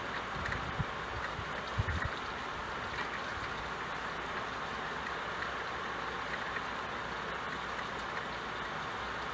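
Steady rain falling, an even hiss, with a few soft low thuds in the first two seconds.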